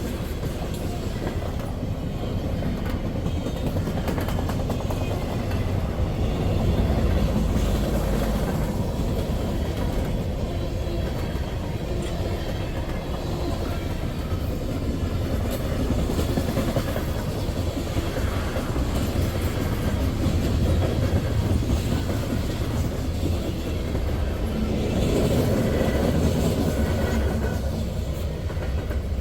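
Freight train rolling past: a steady low rumble of the cars with wheel clatter, swelling and easing slightly as they go by.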